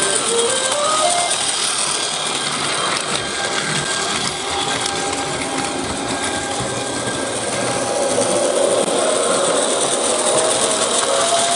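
Electric train running, with steady running noise and a motor whine that rises in pitch near the start and again near the end.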